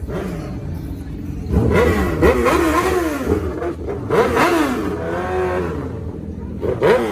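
Car engine being revved in repeated blips, its pitch rising and falling several times over a steady low idle rumble, with a final short rev near the end.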